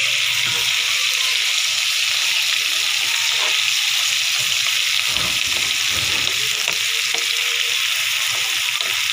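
Sliced onions frying in hot desi ghee: a loud, steady sizzle, while a wooden spoon stirs them around the pan.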